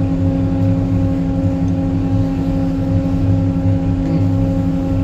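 Vehicle engine idling: a steady low hum that holds one even pitch throughout.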